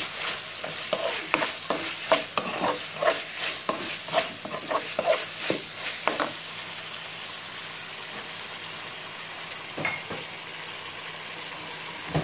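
A metal spoon stirs and scrapes squid rings and onion around a non-stick wok in quick strokes, over a steady frying sizzle. The stirring stops about six seconds in, leaving the sizzle on its own.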